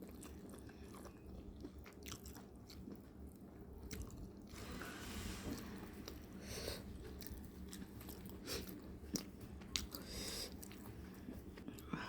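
A person chewing and crunching fried fish, with scattered small sharp clicks.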